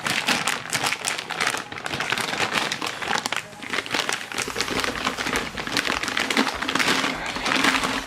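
Packing paper crinkling and crumpling as stainless steel exhaust test pipes are handled and moved around in their wrapping, with irregular rustles throughout.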